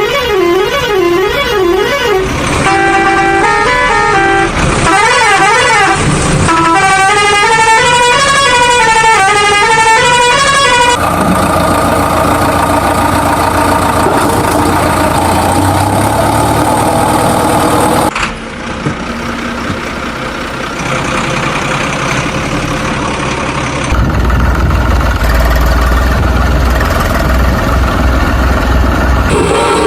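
Truck horn playing warbling, stepping tones for roughly the first ten seconds, then vehicle engine and road noise, with a heavy low rumble over the last several seconds.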